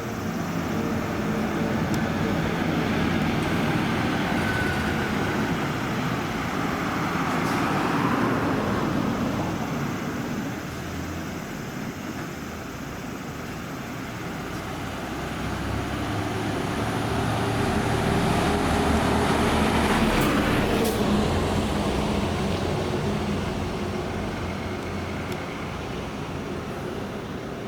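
Buses driving past with their engines running. The sound swells and fades twice, as one bus and then another goes by.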